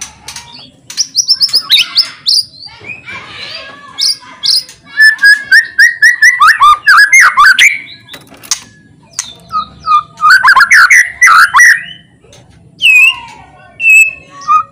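White-rumped shama (murai batu) singing loudly in varied phrases of quick whistles, sweeping notes and rapid chattering trills, with short pauses between them.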